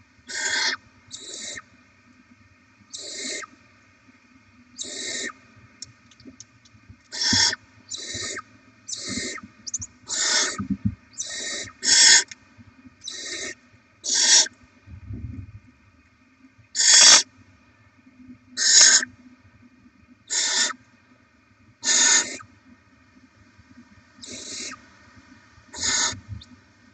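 Barn owl nestlings' hissing begging calls: about sixteen short, harsh hisses, irregularly spaced, some louder than others.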